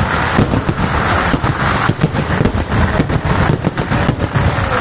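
A dense, rapid barrage of firecracker bangs, many cracks a second over a continuous rumble, loud throughout.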